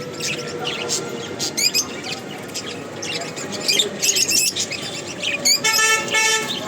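Many caged cockatiels and lovebirds chirping, a busy overlapping chatter of short high calls. Near the end a vehicle horn sounds.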